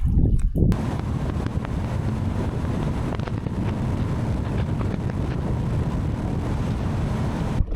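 Steady wind noise rushing over the microphone. It starts abruptly about a second in and cuts off just before the end.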